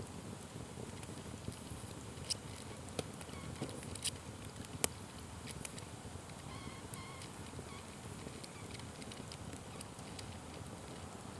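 Wood fire burning: a low steady rumble with scattered sharp crackles and pops, the loudest about five seconds in.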